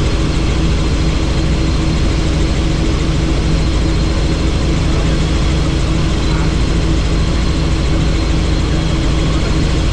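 Helicopter in flight heard from on board: a steady, loud drone of rotor and engine with a low hum and wind rush, unchanging throughout.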